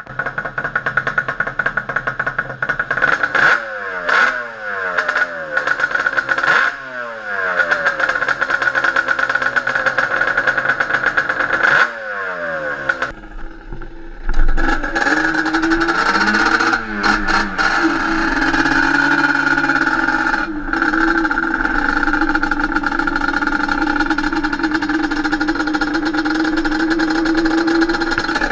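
Yamaha Banshee 350's freshly rebuilt twin-cylinder two-stroke engine running and being blipped on the throttle, the revs rising and falling back several times. After a short break about 13 seconds in, it runs on at a steadier, higher speed.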